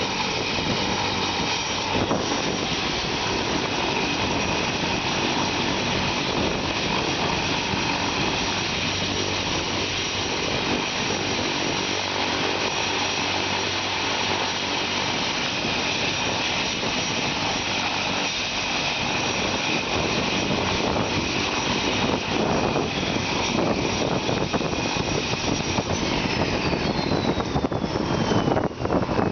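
Police helicopter's turbine and rotor running loud and steady, with a high whine over the noise. Near the end the whine slides down in pitch.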